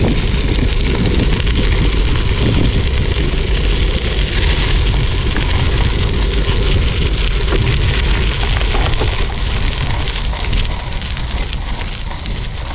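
Wind buffeting an action camera's microphone, with the crackle of bicycle tyres rolling over a gravel trail, as a gravel bike coasts downhill.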